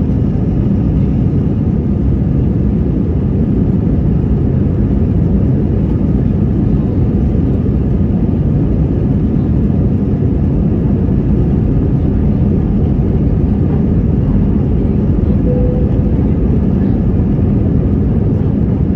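Aircraft engines at takeoff power, a steady, even low drone.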